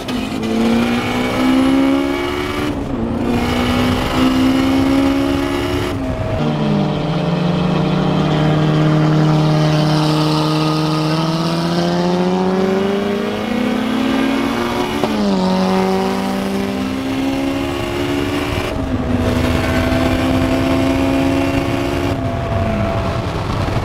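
Turbocharged Honda S2000's four-cylinder engine pulling hard through the gears at highway speed, heard from inside the cabin. The pitch climbs in each gear and drops sharply at each of several gear changes, with one long climb in the middle.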